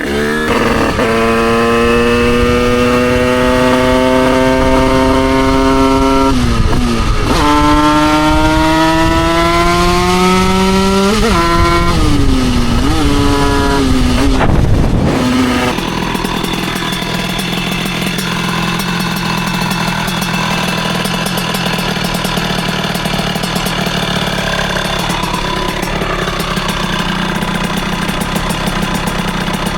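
Derbi Senda's two-stroke engine, bored out to 88cc, revving up in a long pull, dropping at a gear change about six seconds in, pulling up again, then a couple of quick shifts and the revs falling away. For the second half it runs at a steady idle.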